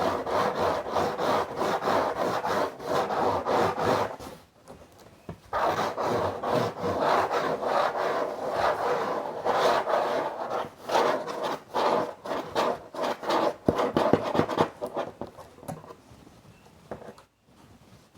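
Rapid scratching and rubbing on a box, in dense runs of strokes with a short pause about four seconds in; near the end it thins out to a few quieter, separate strokes.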